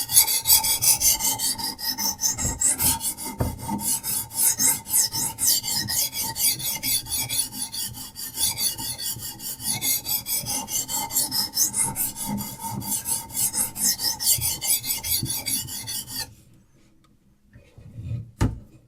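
Diamond sharpening stone on a Hapstone RS guided sharpener scraping in quick, even back-and-forth strokes along a steel knife edge. The strokes stop suddenly about three seconds before the end, and a single short knock follows.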